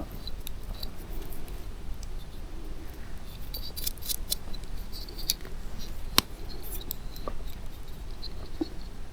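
A scattered series of crisp, short clicks and snips, like cutting or handling small things by hand, with one sharper click about six seconds in, over a steady low rumble.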